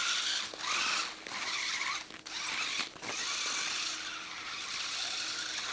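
Radio-controlled car driving on snow: its drivetrain whirring and its tyres churning through snow in surges as the throttle is worked, with short breaks about one, two and three seconds in.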